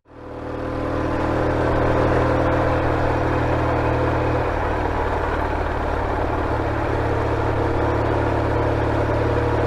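BMW R69S's 594cc air-cooled flat-twin engine running at a steady speed. The sound fades in over about the first second and then holds even, without revving up or down.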